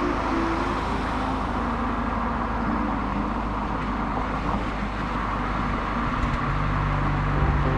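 Honda Fit (GE8) driving: continuous engine and road noise, with a steady low engine hum that grows stronger about six and a half seconds in.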